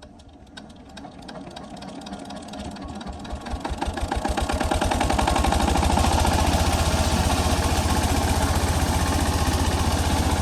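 Diesel pump-set engine coming up to speed, its firing beats sparse and irregular at first, then quickening and growing louder over the first few seconds. It settles into a steady, even running beat for the rest of the time.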